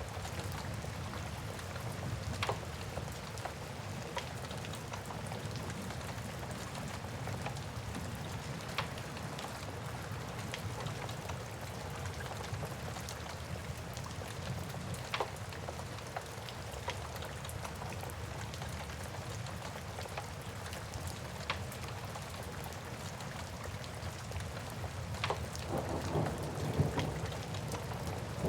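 Steady rain with a low rumble underneath that swells near the end, and a wood fire crackling now and then with sharp single pops every few seconds.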